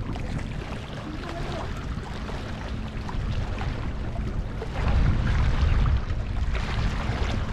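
Wind rumbling on the microphone over the steady wash of the sea, with a stronger gust about five seconds in.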